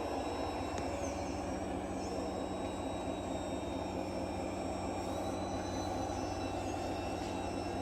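Radio-controlled scale model trucks and tractors running: a steady mechanical drone with several thin high whines that shift slightly in pitch now and then.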